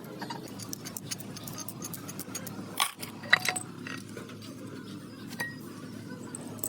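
A few sharp metallic clinks and knocks of tools or engine parts being handled, the loudest just under three seconds in and again about half a second later, over a steady low hum.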